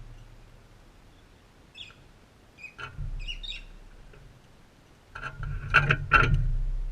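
A few short high bird chirps, then a louder cluster of sharp knocks and taps with a low thud close to the microphone, about five seconds in.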